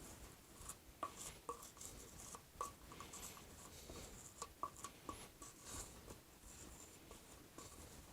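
Faint, irregular scraping with small clicks and taps: a spreader working peanut butter onto a cardboard paper tube.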